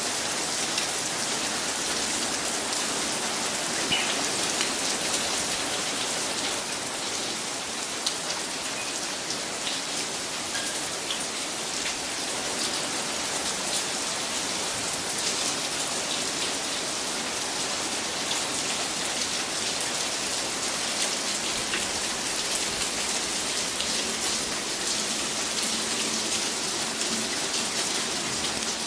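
Steady rain falling, with many separate drops striking a hard surface in quick, irregular ticks.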